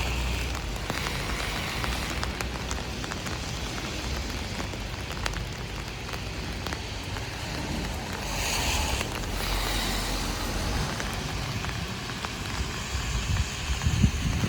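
Heavy rain hitting an umbrella overhead in a steady patter of drops, with the low rumble and tyre hiss of traffic on the wet street.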